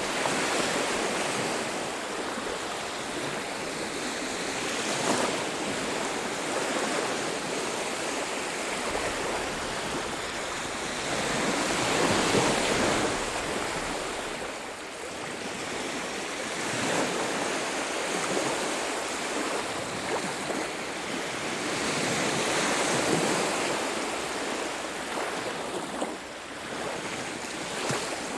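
Ocean waves breaking and washing on a beach, a continuous rushing wash that swells and ebbs, with the biggest surges about twelve and twenty-two seconds in.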